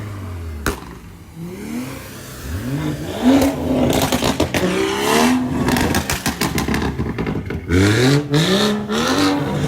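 Car engine revving hard in repeated pulls, its pitch climbing and dropping several times, while the car spins its tires in a burnout.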